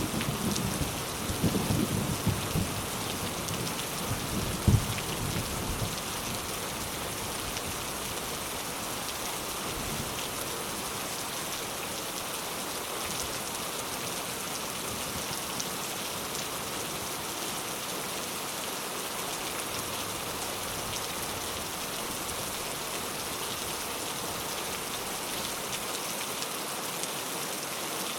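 Rain falling steadily, an even hiss of drops on surfaces. A low rumble of thunder, with one sharp jolt, dies away over the first few seconds.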